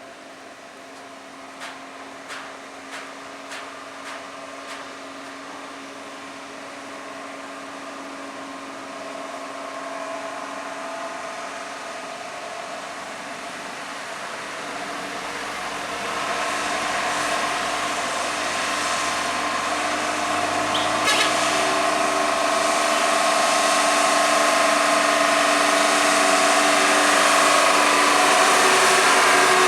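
A vehicle approaching, growing steadily louder throughout, with several steady tones; a quick run of about six clicks sounds in the first few seconds.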